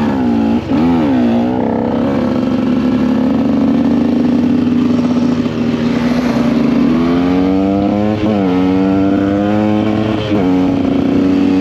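The two-stroke engine of a KTM EXC 125 dirt bike on the move. The revs swing up and down twice near the start, then hold steady. Later they climb again, with two short dips in pitch around eight and ten seconds in.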